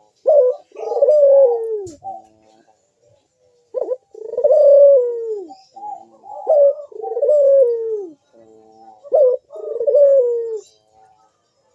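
Barbary dove (burung puter) cooing repeatedly: about six falling coo phrases, each around a second long, separated by short stuttered notes. It is the vocal breeding-mood (birahi) calling used as a lure for other puter doves.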